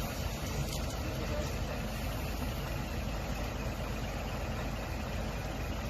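Heavy truck's diesel engine idling steadily, a low even hum.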